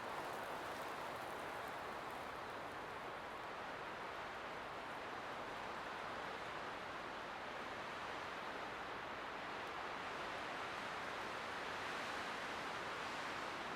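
Light wind blowing in a steady, even rush, swelling slightly near the end.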